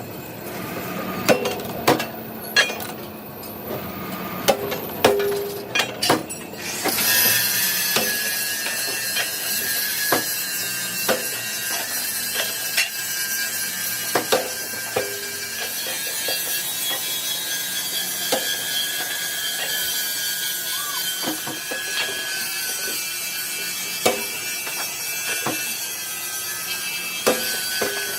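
Steel knocking and clanking in a metal workshop, each knock ringing briefly. About seven seconds in, a machine tool starts and runs steadily with a thin high whine, with the occasional clank of metal on metal.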